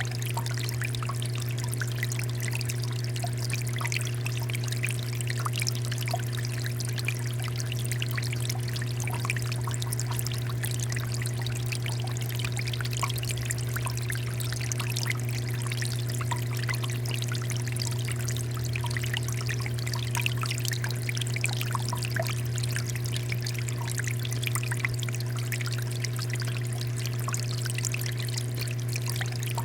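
Water fountain running, water pouring and splashing steadily, over a steady low hum.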